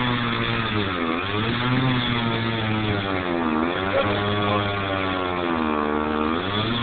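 Chainsaw running hard as it cuts into oak. Its pitch sags and recovers about three times as the chain bites in and then frees up.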